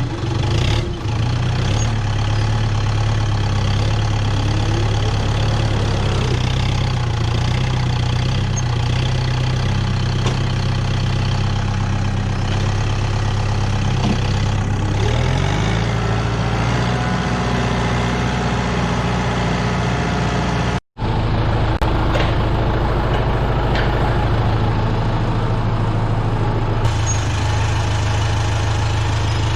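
65-horsepower Kubota tractor's diesel engine running steadily, its pitch sliding down and back up about halfway through. The sound cuts out for a split second a little over two-thirds of the way in.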